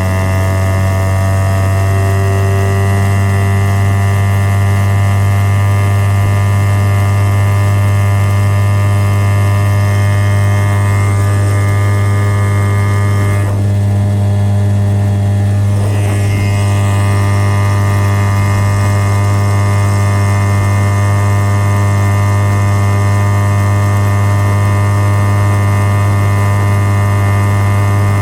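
1984 Mariner 4 hp two-stroke outboard motor running steadily under way, its pitch climbing slightly in the first couple of seconds and then holding even.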